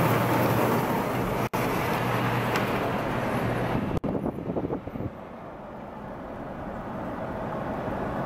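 Car on the move: steady road and engine noise with a low hum. The sound drops out for an instant twice, about 1.5 and 4 seconds in, and is quieter after about 5 seconds.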